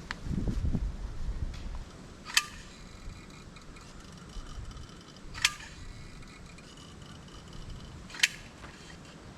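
A low rumble, then three sharp clicks evenly spaced about three seconds apart, each with a short faint ring.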